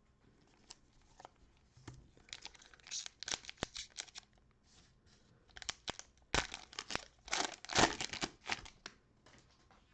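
A plastic cello wrapper on a pack of trading cards is torn open and crinkled, in two bouts of crackling.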